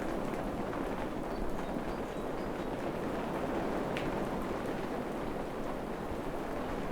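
Steady forest rain falling, a dense even rushing hiss that stays the same throughout.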